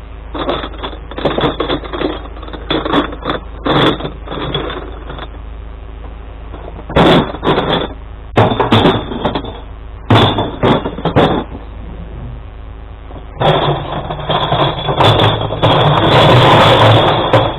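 Glass collection truck's engine running steadily under repeated loud clattering crashes of glass, the longest and loudest near the end: glass bottles being tipped into the truck.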